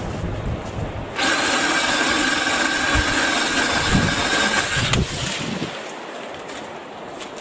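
BLACK+DECKER 18V cordless saw motor running at a steady speed for about four seconds, starting about a second in and stopping near the five-second mark, with a few dull knocks while it runs.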